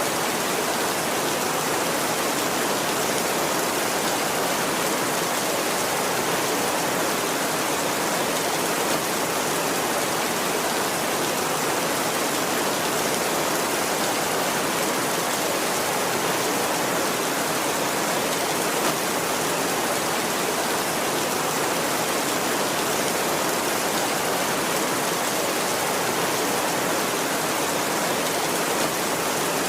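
Steady heavy rain, an even hiss that holds at one level throughout.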